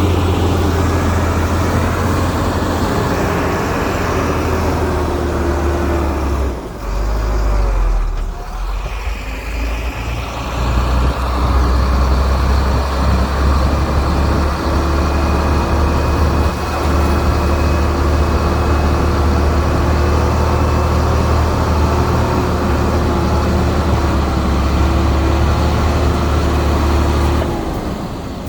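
Heavy diesel earthmoving machinery running steadily with a deep engine drone, dropping briefly about seven seconds in.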